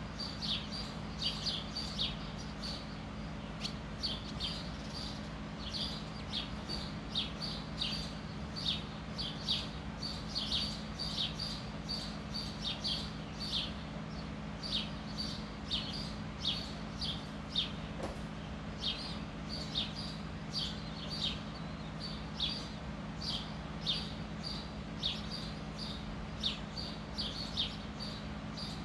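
A bird chirping over and over, short falling chirps about one or two a second, over a steady low hum.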